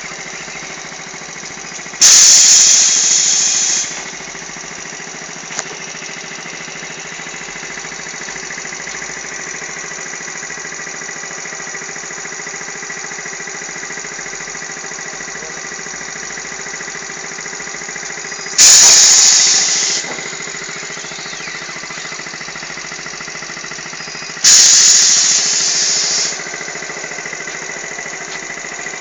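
A motorcycle engine running steadily on a test bed, broken three times by a sudden loud burst of noise that fades over a second or two and then stops.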